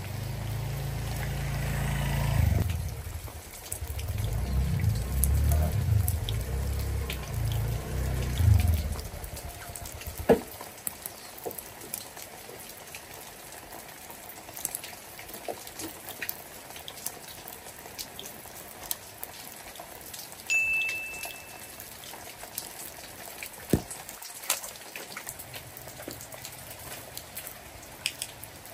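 Steady rain pattering, with a motor scooter's small engine running under it for the first several seconds as the scooter rides in and stops. The engine cuts off about ten seconds in, and rain with scattered drips and ticks is left. A short high beep sounds about twenty seconds in.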